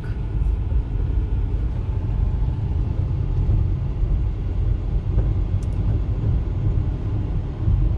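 Steady low engine and road rumble heard inside a manual car's cabin while it drives along in second gear.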